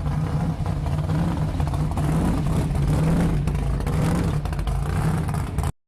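Car engine running steadily, getting a little louder for a moment in the middle.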